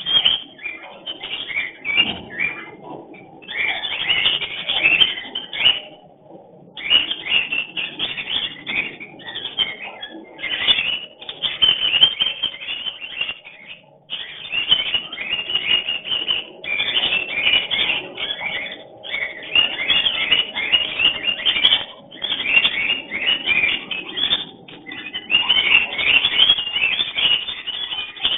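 A pair of cockatiels, male and female, giving rapid chirping breeding calls in long runs broken by short pauses.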